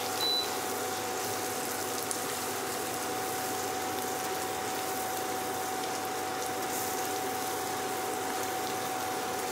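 Spice paste with whole garlic sizzling in hot oil in a frying pan as it is stirred with a spatula, over a steady hum. A short high beep sounds just after the start.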